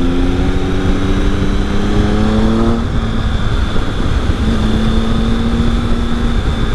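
Triumph Speed Triple's three-cylinder engine heard from the rider's seat, its note rising slowly under throttle for about three seconds, then dropping away and later holding steady for a couple of seconds. Wind rush on the helmet microphone runs under it.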